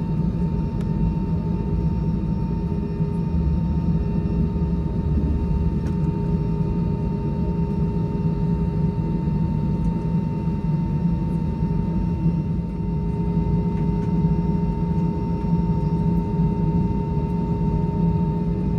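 Steady cabin drone of an Airbus A320 heard from a passenger seat: a low hum and rumble under a constant high whine that holds the same pitch throughout.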